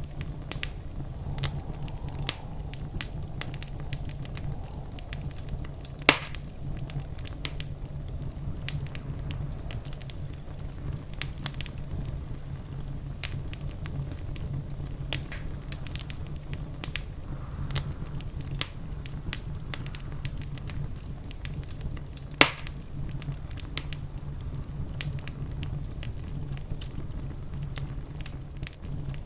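Wood fire burning in a fireplace: a steady low rumble with frequent irregular crackles and pops, two sharper pops standing out, one about six seconds in and one near two-thirds of the way through.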